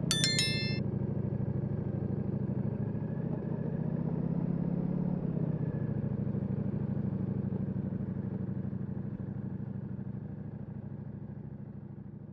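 Ducati Multistrada V4S's V4 engine with Akrapovic exhaust idling steadily with an even low pulse, its level slowly falling toward the end. A short run of electronic beeps sounds right at the start.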